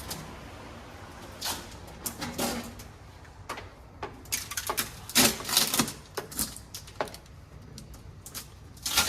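Irregular clicks, knocks and rattles of things being handled, busiest about five to six seconds in, with a sharp knock near the end.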